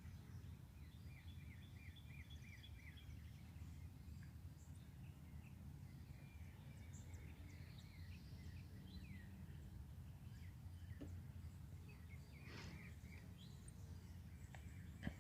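Faint outdoor birdsong from several birds: scattered chirps and short calls, with a quick run of repeated notes in the first few seconds, over a steady low background rumble.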